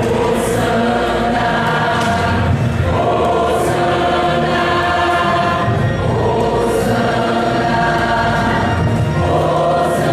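A choir singing in long held chords, with a new phrase starting about every three seconds.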